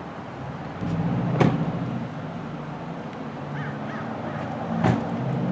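Police vehicle engines idling, a low steady hum that grows louder about a second in, broken by two sharp knocks, one about a second and a half in and one near the end. A few faint bird calls come in between.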